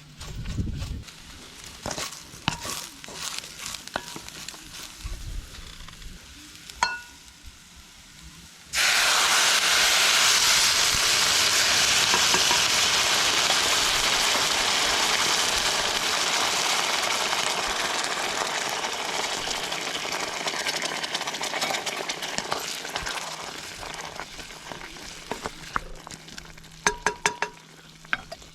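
Food dropped into hot oil, starting a loud sizzle about a third of the way in that slowly dies down. Before it and near the end, light clinks and taps of cooking utensils.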